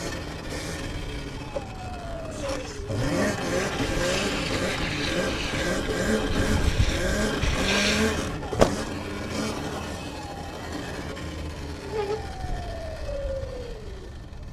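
Sur-Ron electric dirt bike being ridden, its motor whine rising and falling with the throttle and gliding down in pitch twice as it slows. There is a single sharp knock a little past halfway.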